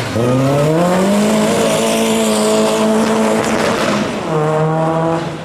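Rally car's engine at high revs. Its pitch climbs over the first two seconds and holds, drops away about three and a half seconds in, then comes back at a lower steady pitch before fading near the end.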